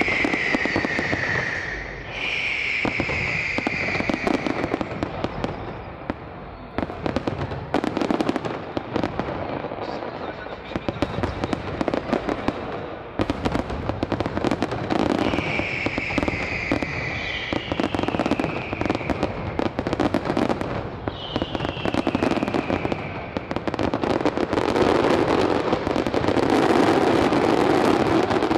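Fireworks display: dense crackling bursts and pops, with a falling whistle from whistling shells several times. Near the end the bursts merge into a loud continuous barrage.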